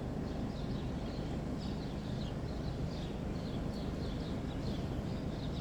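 Birds chirping, short high calls repeating over a steady low rumble of background noise.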